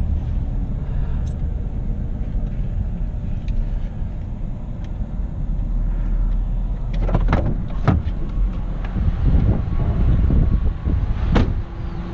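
Steady low rumble of a motor vehicle, with a few sharp knocks about seven to eight seconds in and one more near the end.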